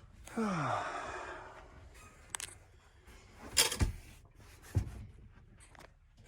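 A falling creak with a hiss about half a second in, then three sharp knocks, the loudest near the middle, from a blown-over travel trailer being jacked up and lowered onto a box.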